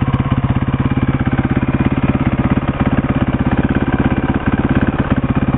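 1990 Suzuki DR250S's single-cylinder four-stroke engine idling steadily through its stock exhaust, an even, rapid beat with no misses or hiccups.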